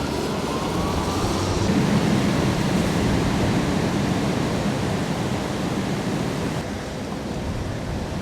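Typhoon wind and rain: a steady, loud rushing noise, with a faint rising whistle in the first second or so.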